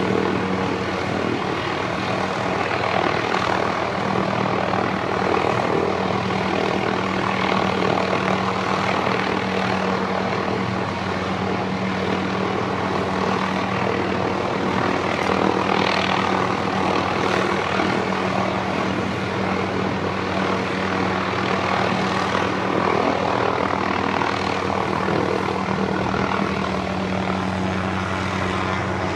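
Helicopter hovering: steady rotor and engine noise with a constant low hum, unchanging throughout.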